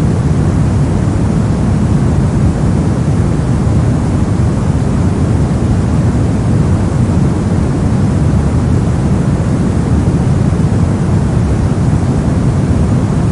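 Steady synthetic soft noise, a deep, even hiss weighted toward the low end, with no changes or events.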